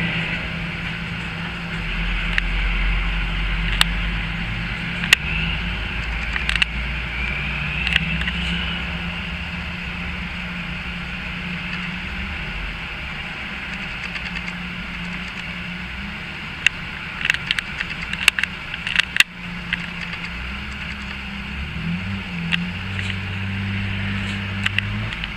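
Classic Jaguar E-Type engine running at low revs amid light road traffic, rising in pitch about four-fifths of the way through as it pulls away. A cluster of sharp clicks comes about three-quarters in.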